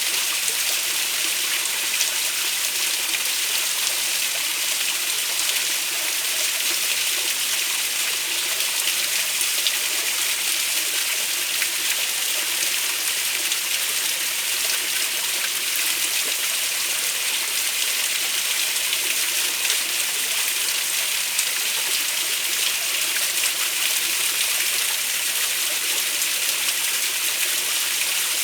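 Stream water running over rocks: a steady, unbroken rush with no let-up.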